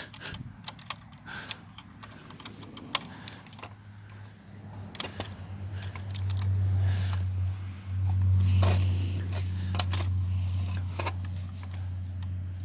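Scattered plastic clicks and taps from handling the Axial SCX10 II RC crawler, then its electric drive motor starts a steady low hum about four seconds in. The hum grows louder, drops out briefly near the eight-second mark and carries on.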